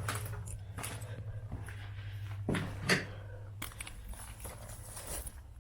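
Scattered footsteps and knocks of someone moving through an empty room, over a low steady hum that cuts off a little past halfway.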